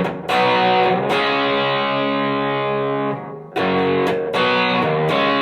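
Electric guitar playing simple chords through a Donner Morpher distortion pedal in its tight mode, the gain set low at about 9 o'clock. The chords are let ring, then restruck twice about three and a half seconds in after a short gap.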